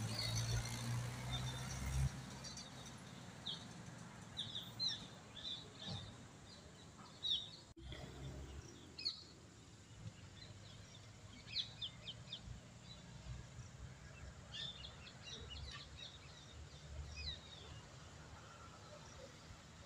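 Small birds chirping in short, scattered calls over faint outdoor background noise, with a low rumble in the first couple of seconds.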